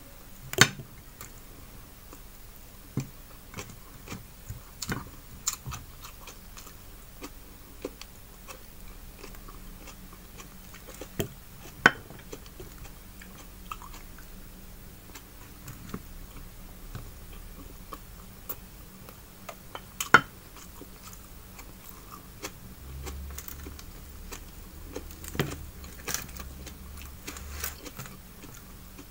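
Close-up chewing and wet mouth sounds of a person eating fried fish, rice and tomato-onion salad with her hands, made up of many small sharp clicks. About three louder sharp clicks stand out: one right at the start, one near the middle and one about two-thirds through.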